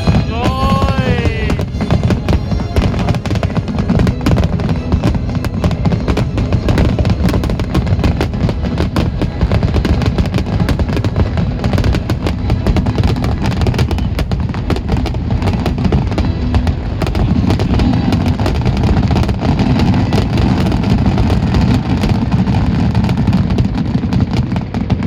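Fireworks display: a dense, continuous barrage of booming shell bursts and crackling, with a whistling shell sweeping up and down in pitch about a second in.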